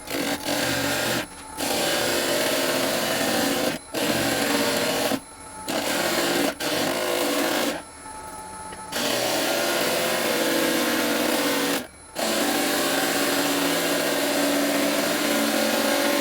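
Woodworking lathe running with a tool worked against the spinning driftwood-and-resin workpiece, a steady scraping noise over the motor. The sound drops out abruptly about six times, each for a fraction of a second to about a second.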